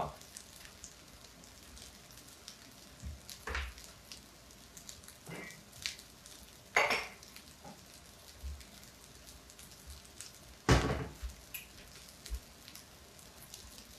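Faint sizzle of rice frying in oil in a pan, left unstirred so the bottom crisps, with a few scattered knocks and clatters, the loudest about three-quarters through.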